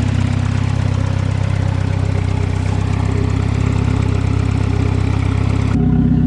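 Turbocharged Swedish car engine idling steadily just after a winter cold start on a fresh battery, with an even hiss over the engine note. Near the end the sound changes abruptly and the hiss drops away.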